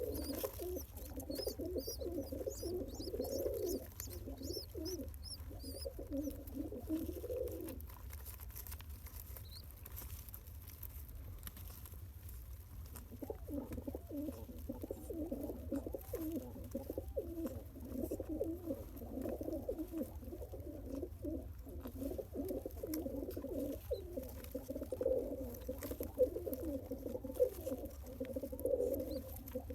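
Adult pigeon feeding a newly hatched squab: low, rapid, throaty pigeon sounds while it pumps crop milk into the chick, pausing for several seconds in the middle before starting again. Faint high squeaks come in the first few seconds.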